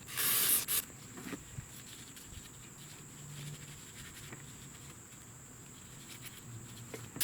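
A short burst of hissing in the first second, then faint small clicks and handling noises over a steady high-pitched whine.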